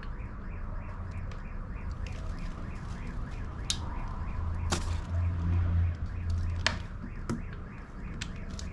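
Ratchet wrench clicking in a quick, even rhythm as the bolts of a Harley Twin Cam 96's cam support plate are loosened a little at a time, with a few sharper metallic clicks in the middle.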